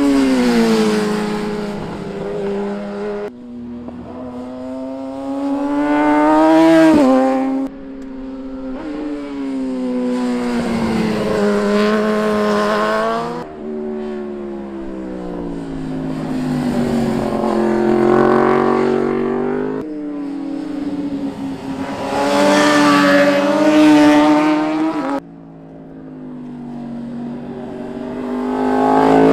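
Street motorcycles passing one after another on a canyon road, about six pass-bys. Each engine note swells and rises as the bike approaches under throttle, then drops in pitch and fades as it goes by, and some passes cut off suddenly.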